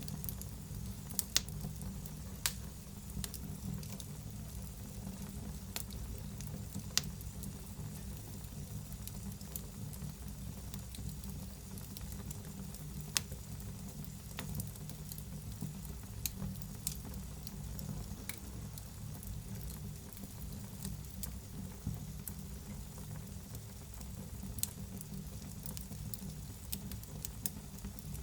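Wood fire burning in a fireplace, crackling and hissing over a low steady rumble, with sharp pops every few seconds.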